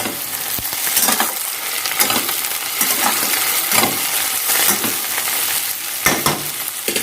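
Sliced onions and bay leaves frying in mustard oil in a pan, sizzling steadily, with a spatula stirring and scraping the pan about once a second.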